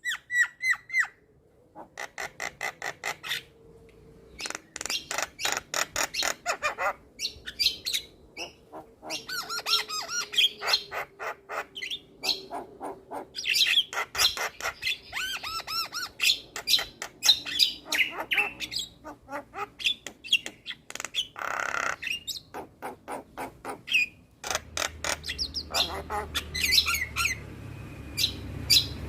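Javan myna (jalak kebo) singing a long, varied song: runs of fast repeated chattering notes, trills, whistles and harsh squawks with only brief pauses.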